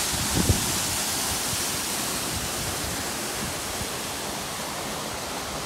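Mountain waterfall rushing: a steady hiss of falling water.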